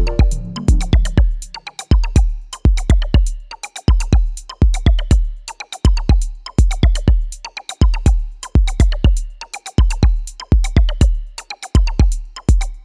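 Electronic background music: a drum-machine beat of deep kicks and sharp hits, with a melody that drops out about a second in, leaving the beat alone until it cuts off abruptly.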